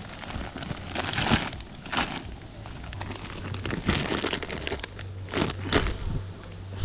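Rustling and crinkling of camping gear being handled, in several short bursts, over a faint low hum.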